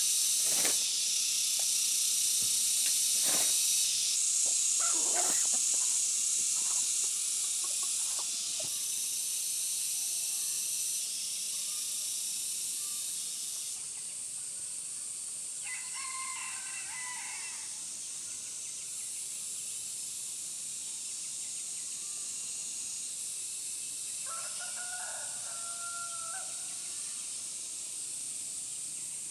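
A rooster crowing twice, each crow about two seconds long, once about halfway through and once near the end, over a steady high-pitched hiss. Scattered sharp knocks or taps come in the first third.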